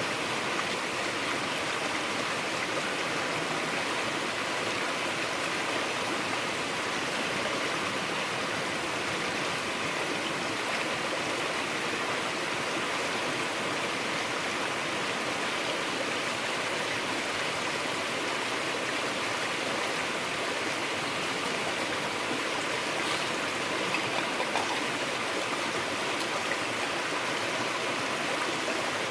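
Steady rush of a flowing stream, unbroken throughout.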